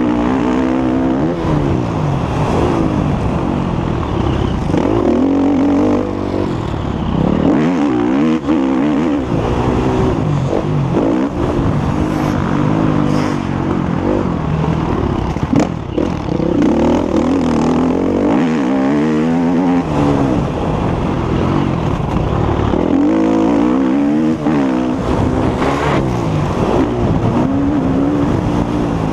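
Motocross bike engine ridden hard, revving up and easing off again and again as it climbs through the gears and drops back between corners.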